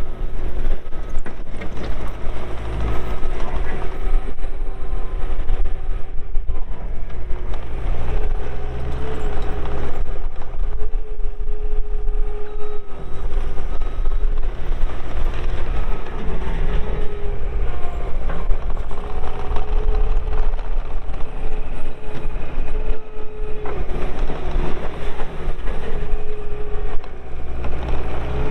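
Bobcat T320 compact track loader working, its 92 hp Kubota diesel running steadily with a continuous whine that rises and falls slightly in pitch every few seconds as the machine is driven and the loader is worked.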